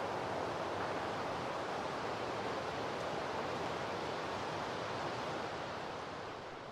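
Steady rushing outdoor noise picked up by a camera trap's microphone, fading out near the end.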